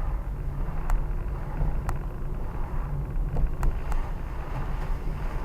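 Car running, heard from inside the cabin: a steady low engine and road rumble, with a few faint clicks.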